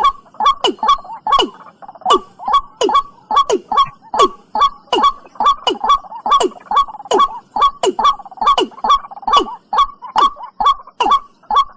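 Watercock calling: a steady run of short, hollow notes, each starting with a sharp click and sliding down in pitch, about two a second, the bird's repeated two-part luring call.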